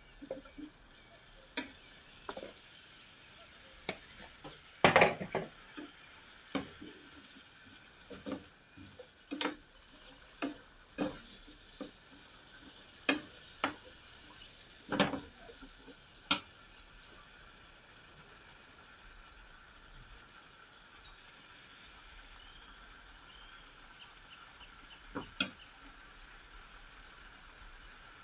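Kitchen utensils and dishes knocking and clinking while food is prepared: scattered sharp knocks, frequent through the first half, then mostly quiet with a couple more near the end.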